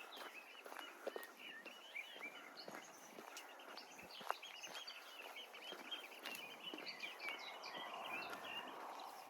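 Many small songbirds singing at once in the trees, a steady chorus of overlapping chirps and trills, with occasional light footsteps on the path.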